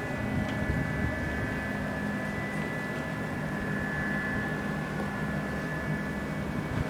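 Ship engines and machinery of a docked BC Ferries vessel running in a steady drone, with a low hum and a steady high whine.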